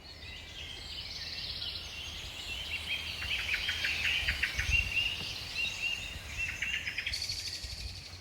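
Birds singing: many short chirps and quick trilled phrases repeating over a low rumble.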